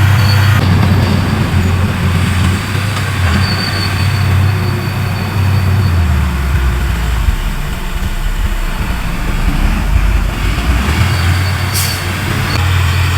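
Large crawler bulldozer's diesel engine running hard, its note dropping lower for several seconds in the middle and then rising again, with squealing and clanking from the steel tracks and a sharp click near the end.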